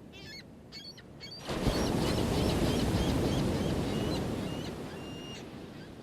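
An ocean wave breaking about one and a half seconds in and washing up, then slowly fading away, with birds giving short high calls before and over it.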